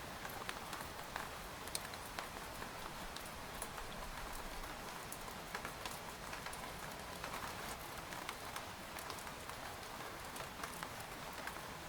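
Steady rain pattering on a tent, an even hiss of rainfall with many individual drops tapping on the fabric.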